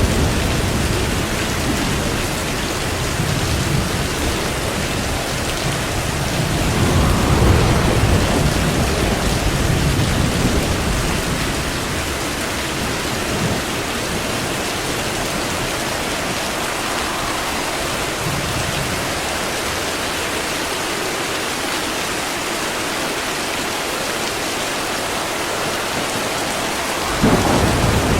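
Steady heavy rain with rolling thunder: low rumbles swell in the first few seconds and again about a quarter of the way through, the rain carries on more evenly in the middle, and a fresh thunder roll comes in suddenly near the end.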